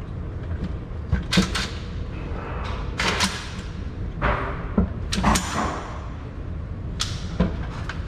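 Several gunshots at a shooting range, each a sharp crack with a short ringing tail, spaced a second or two apart.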